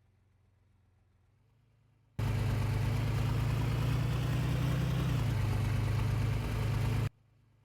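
A motor vehicle engine running under loud rushing noise. It starts abruptly about two seconds in, drops a little in pitch partway through, and cuts off abruptly near the end.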